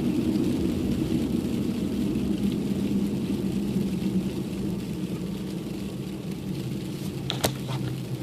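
Car driving on a snowy road, heard from inside the cabin: a steady low engine and road rumble that eases off gradually after a few seconds. A couple of sharp clicks come near the end.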